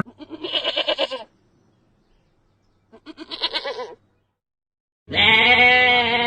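Bleating livestock: two short, quavering bleats about a second long, then a longer, steadier bleat near the end.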